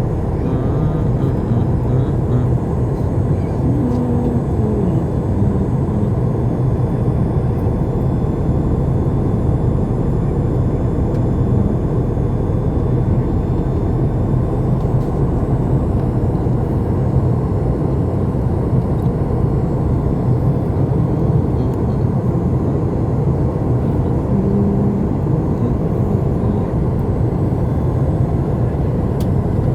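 Steady cabin noise of a Boeing 737 MAX 8 airliner in flight: an even, low engine and airflow drone heard from inside the cabin.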